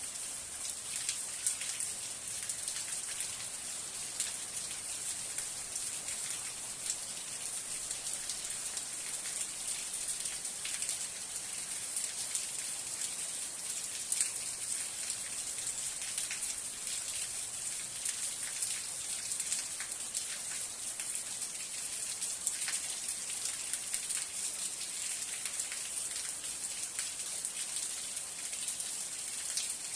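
Steady rain falling, with many individual drops ticking sharply over a constant hiss.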